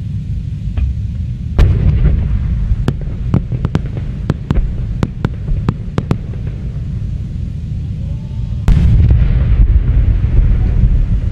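Aerial fireworks display: a steady low rumble of distant shell bursts, with a quick run of a dozen or so sharp cracks in the first half. Near the end a sudden louder barrage of bursts sets in.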